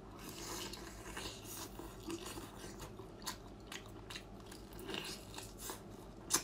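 A person biting and chewing lobster meat close to the microphone: wet mouth sounds with many small clicks and smacks, and a sharper click near the end.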